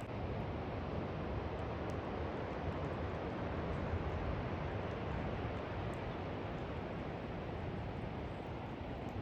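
Steady rushing noise of heavy rain and wind, even and unbroken, with no pitched or rhythmic sound in it.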